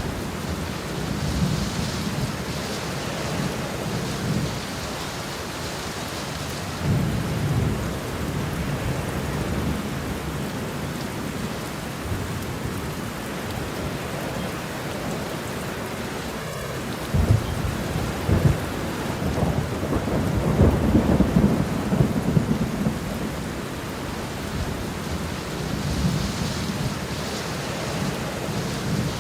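Steady heavy rain with rolling thunder. Low rumbles swell in and out, with the loudest and longest roll of thunder starting about 17 seconds in and lasting several seconds.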